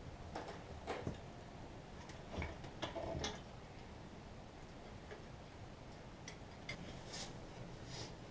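Irregular light clicks and knocks, about ten over several seconds, with a few louder ones near the start, from hands-on work on a car's rear brakes and axle.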